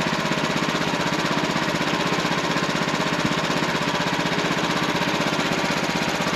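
Wood-Mizer portable sawmill's engine running steadily, with a rapid, even firing pulse.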